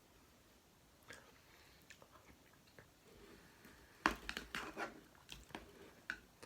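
Crisp crackling and clicking of food being handled and crunched close to the microphone while a taco is put together. A few faint clicks come first, then a dense run of crunches about four seconds in.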